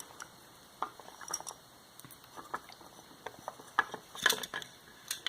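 Small metal parts of a vacuum motor clicking and clinking as they are handled during disassembly. The taps are scattered, with a louder cluster about four seconds in.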